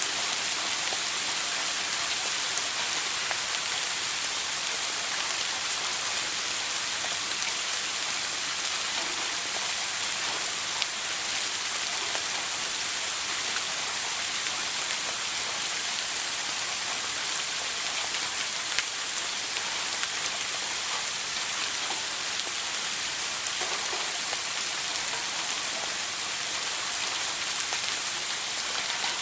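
Shower water spraying steadily and pattering on a hard surface, a continuous even hiss with faint scattered droplet ticks.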